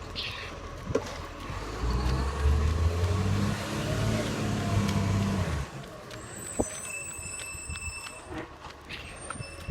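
Garbage truck's engine pulling away, loud for about four seconds from two seconds in with its pitch rising and then falling, before dying down.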